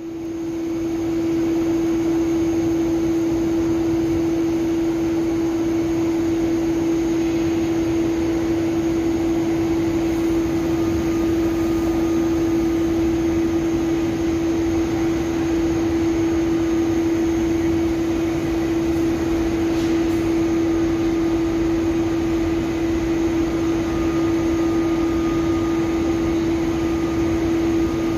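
ÖBB Railjet electric passenger train rolling slowly past, a steady unchanging electric hum over the noise of the train running along the track.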